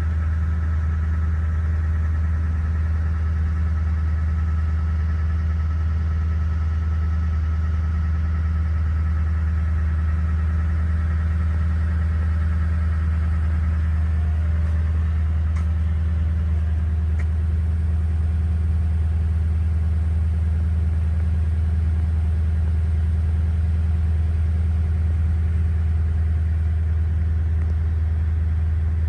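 Car engine running with a steady low hum, with faint higher tones above it that fade out about halfway through.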